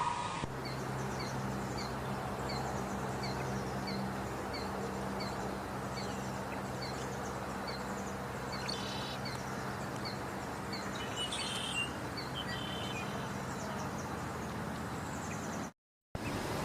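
Outdoor ambience with a small bird repeating a short high chirp about twice a second, and a few other chirps in between, over a steady low hum. The sound cuts out abruptly near the end.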